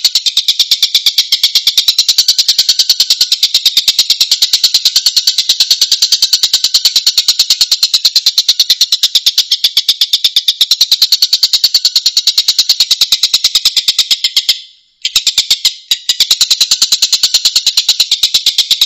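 A tengkek (Indonesian kingfisher-type cage bird) giving its harsh, tight 'tembakan' call: a fast, even rattle of rough notes that runs on with barely a pause, breaking off briefly about three-quarters of the way through.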